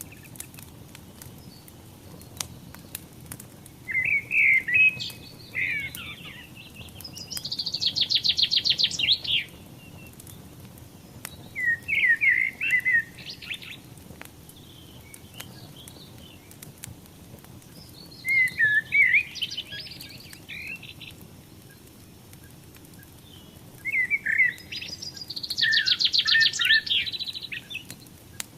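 A songbird singing four separate phrases, each a few warbled notes ending in a fast trill. Underneath runs a low steady rush with scattered sharp crackles, typical of a wood fire burning.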